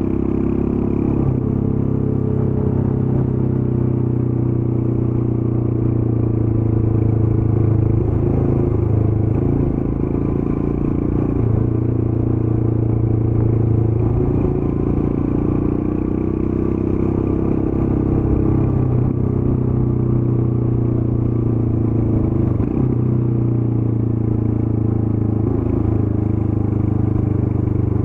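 Royal Enfield Scram 411's single-cylinder engine running through its stock exhaust while the bike is ridden at an easy, slower pace. Its note holds fairly steady, with a few brief dips.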